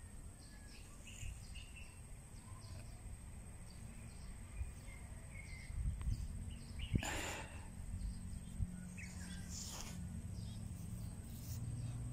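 Birds chirping with short, scattered high calls, mostly in the first few seconds, over a low steady outdoor rumble. Two brief rustles come about seven and ten seconds in.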